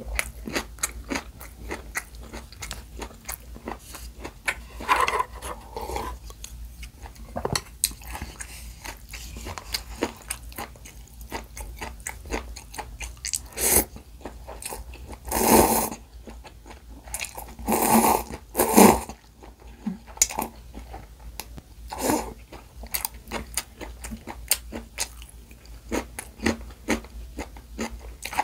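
Close-miked chewing and crunching of seaweed-wrapped gimbap rolls filled with raw cucumber, pickled radish and carrot, as a steady stream of small crisp crunches. About halfway through come several loud slurps of noodles from a paper cup.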